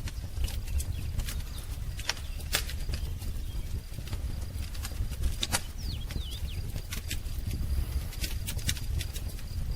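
Wood fire crackling, with irregular sharp pops and snaps over a steady low rumble. A few short bird chirps come in about six seconds in.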